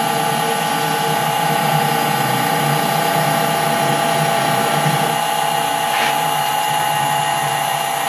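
Metal lathe running steadily in reverse during internal screw cutting, its motor and gear train giving an even hum with several fixed whining tones. A faint brief scrape comes about six seconds in.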